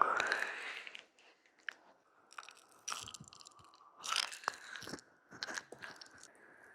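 Ear-massage ASMR: hands rubbing a binaural microphone's ears, with close crackly rubbing and scratching in short bursts, the loudest in the first second.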